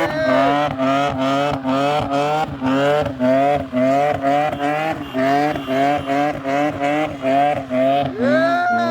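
Car engine revved hard against the rev limiter in quick repeated pulses, about three a second, each pulse rising in pitch before it cuts out, over a steady lower running note. Near the end there is one longer rev up and back down.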